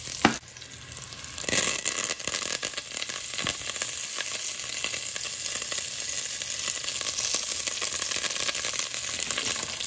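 Sliced shallots and curry leaves sizzling in hot coconut oil in a stainless steel pot. The sizzle flares louder about a second and a half in, around when the curry leaves go in, then runs steadily as the pan is stirred.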